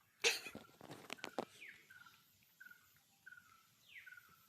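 A bird calling repeatedly: short chirps at one pitch come about every half second to second, and a downward-sweeping whistle about every two seconds. A brief loud burst comes just after the start, followed by a couple of clicks.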